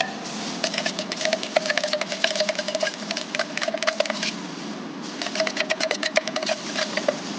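Paint being stirred in a container during mixing of yellow and orange paint: rapid clicking and scraping with a ringing note from the container, in two runs with a short pause about two thirds of the way through.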